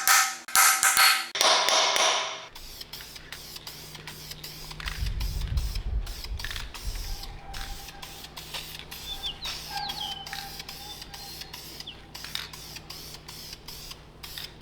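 Hand-tool work on metal parts, ratchet-like clicking and small mechanical knocks, after two loud hissy bursts in the first two seconds.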